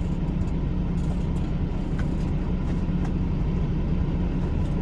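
Semi-truck engine running with a steady low drone and road noise while the truck drives along at a constant pace.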